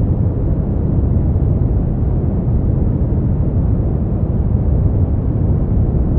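Continuous sleep-aid noise of the white-noise kind, perfectly steady and unchanging. It is deep and rumbling rather than hissy, with almost no high hiss.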